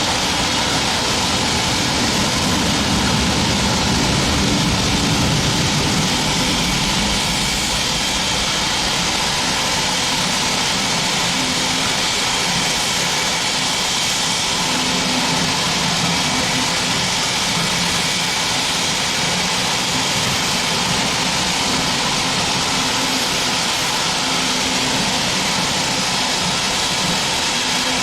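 Steam locomotive 34027 Taw Valley, a Bulleid West Country class Pacific, standing with a steady hiss of escaping steam.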